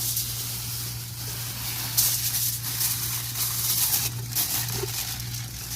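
Wood campfire burning, a steady crackling hiss with a few sharp pops.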